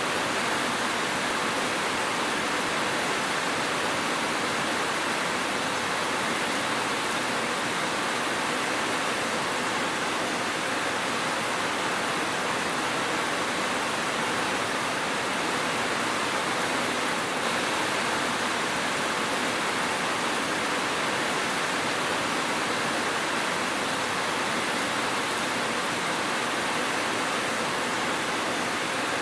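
Steady rain, an even hiss with no single drops or thunder standing out.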